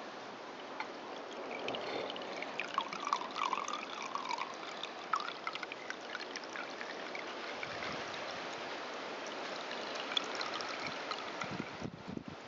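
Gasoline trickling steadily from the bottom of a lawn mower's fuel tank through a hose into a glass jar, drained off to check for water settled beneath the fuel.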